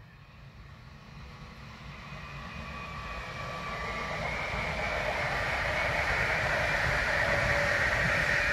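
Electric multiple-unit passenger train approaching and passing on an overhead-wired line, its running noise growing steadily louder, with a whine in several steady pitches over the rush of the wheels on the rails.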